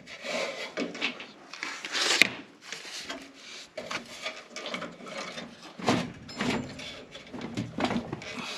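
Irregular knocks, scrapes and rattles of sheet-metal furnace parts being handled as the blower fan assembly is unscrewed and worked loose from the cabinet, with a sharper knock about two seconds in.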